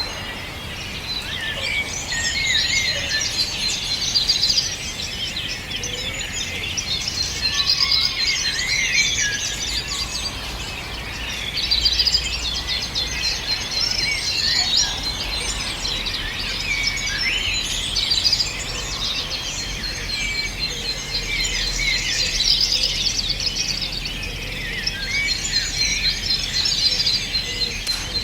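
Many songbirds singing at once in a dense chorus of overlapping chirps and trills. It swells and thins every few seconds without ever stopping.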